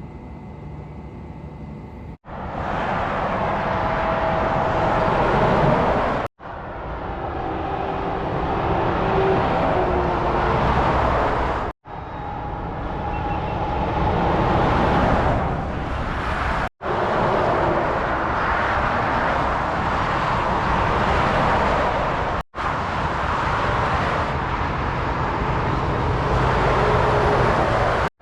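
Heavy motorway traffic: lorries and cars passing at speed, with tyre roar and diesel engine noise swelling as each goes by. The sound cuts off sharply five times and starts again, as short passing clips are spliced together.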